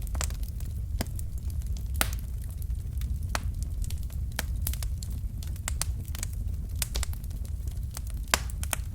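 Wood logs burning in a fireplace: irregular sharp crackles and pops over a steady low rumble of the flames, with one louder pop near the end.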